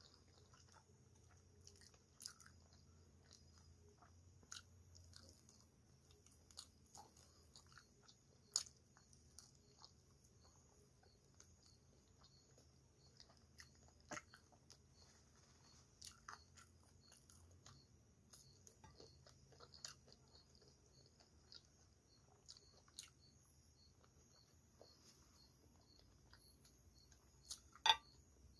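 Faint, close-miked chewing and mouth sounds of someone eating pasta, with short sharp clicks every second or two and a louder double click near the end.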